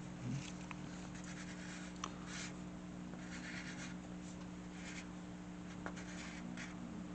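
Drawing on paper: a series of short scratching strokes with a few sharp ticks, over a steady low hum.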